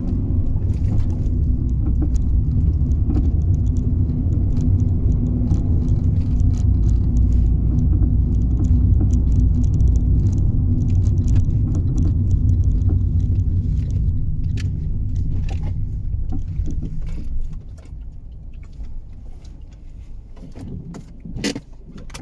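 Fiat 500 driving, a steady low road and engine rumble with scattered light knocks and rattles over it, the clunking from under the car whose cause the owner does not know. The rumble drops off sharply about three quarters of the way through as the car slows, leaving a few louder knocks near the end.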